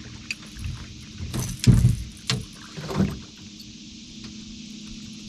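Several thumps and rattles on a boat, the loudest about a second and a half in, over a steady low hum.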